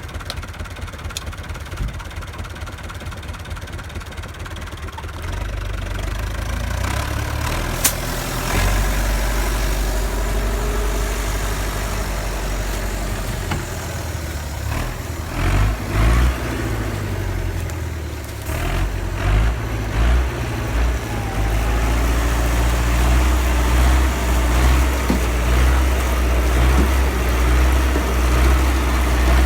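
Tractor engine running with a steady low drone that grows louder and heavier about five seconds in and again after about twenty seconds, with a sharp click and a few short knocks in between.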